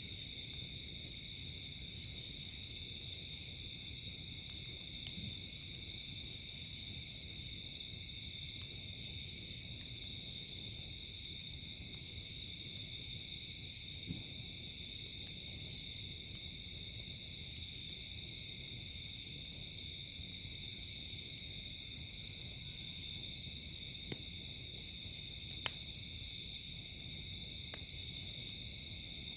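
A steady high-pitched chorus of night insects, with a higher pulsing call that comes and goes every few seconds. Over it are a few sharp pops from a crackling campfire.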